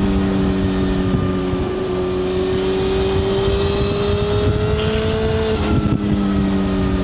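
Honda CBR600F F4i inline-four running through a MIVV slip-on exhaust with the dB-killer fitted, its note rising slowly under steady throttle, then dropping abruptly about five and a half seconds in and easing down. Wind rush runs underneath.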